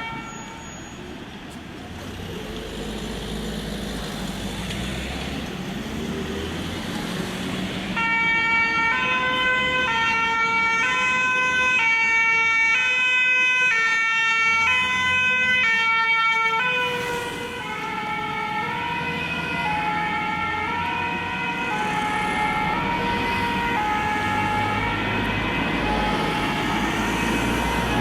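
A Paris Fire Brigade rescue engine's two-tone 'deux tons' siren alternates steadily between two notes over street traffic, about three changes every two seconds. It starts about a third of the way in, is loudest as the engine passes, then drops in level as it moves away.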